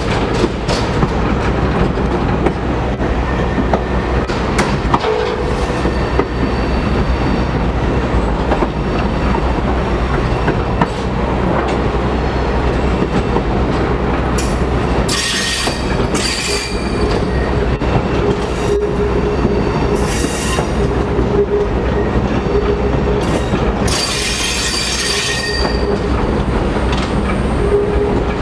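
Passenger train running along the track, heard from aboard: a steady rumble and clatter of the railcar wheels on the rails, with the wheels squealing twice, briefly, in the second half.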